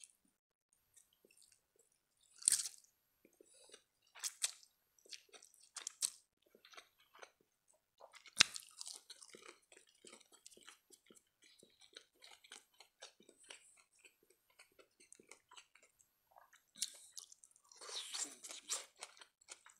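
Close-miked chewing of spaghetti and breaded chicken nuggets: wet mouth clicks and smacks throughout, with louder sharp bites about two, four, six and eight seconds in, the one near eight seconds the loudest.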